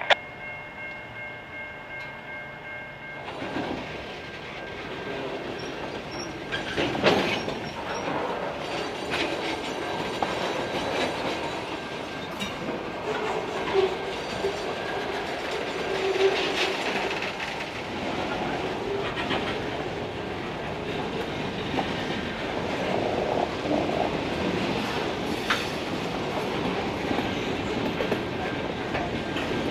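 Freight train boxcars rolling past, wheels clicking over the rail joints in a steady rumble, with a sharp clank about seven seconds in and short wheel squeals in the middle.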